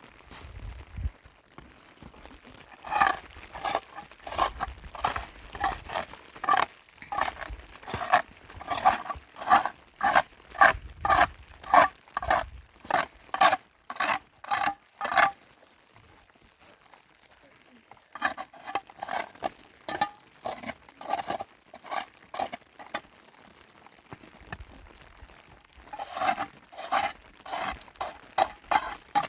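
Footsteps crunching through snow at a steady walking pace, about two steps a second, pausing twice for a few seconds.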